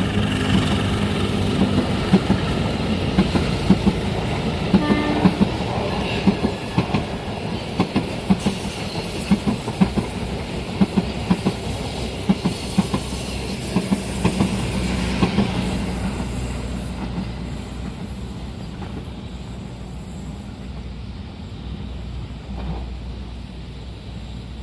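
Passenger or freight train cars passing at speed, wheels clacking over rail joints in a rapid run of knocks over a steady rumble. The clacking stops about two-thirds of the way through and the rumble fades as the train moves away.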